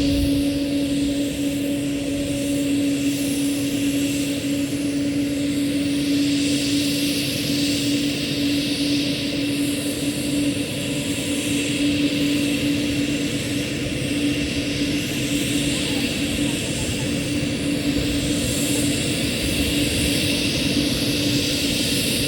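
Military helicopter running at takeoff power, a steady high engine tone over a dense low rotor noise.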